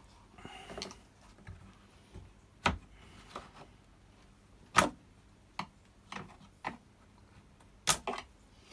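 Scattered sharp clicks and knocks of parts and tools being handled during small-engine repair work, about eight in all, three of them louder than the rest.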